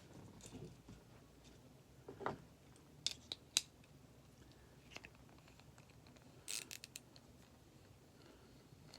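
Small model-engine parts and tools being handled: sparse light clicks and taps, two sharper ones around three and three and a half seconds in, and a short scraping rattle about six and a half seconds in.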